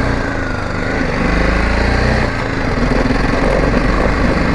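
Motorcycle engine running, its note picking up about a second in and easing off a little after two seconds.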